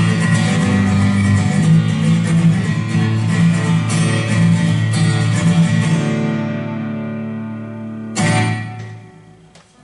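Steel-string Martin acoustic guitar strummed in a steady rhythm, the closing bars of a song. The strumming stops about six seconds in and the chord rings on. A last chord is struck about two seconds later and fades away.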